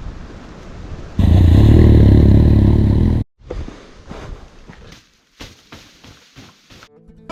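Motorcycle engine running loudly for about two seconds, then cutting off abruptly, followed by quieter scattered clicks and rustles.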